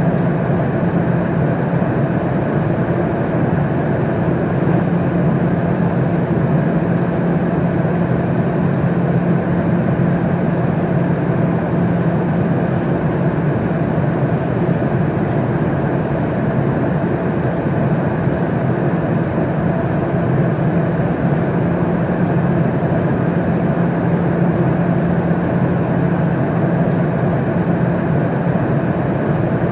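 Airliner cabin noise in flight: a steady, even rush of engine and airflow noise with a low hum.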